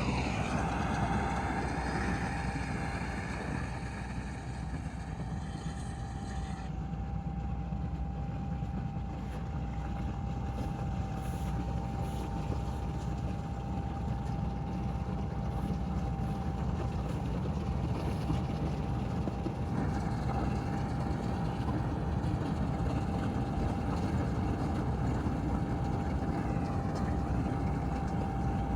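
Combine harvester running steadily under load: a continuous low engine rumble with a steady high whine over it.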